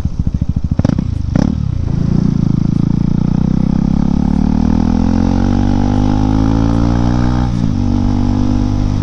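KTM Duke 390's single-cylinder engine through an aftermarket-fitted BS4 exhaust, riding: a few sharp pops in the first two seconds, then the engine note rises steadily under acceleration, drops suddenly with a gear change near the end and pulls on.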